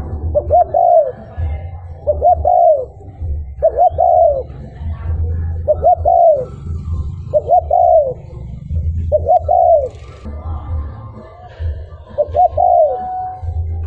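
Spotted dove cooing: a short rising-and-falling coo phrase repeated seven times, roughly every two seconds, over a low rumble.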